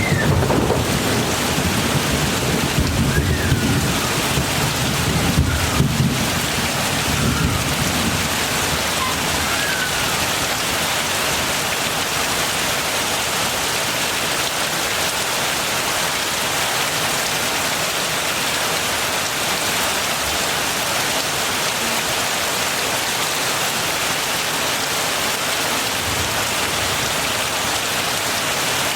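Heavy rain falling steadily, with a low rumble of thunder over the first several seconds that fades away.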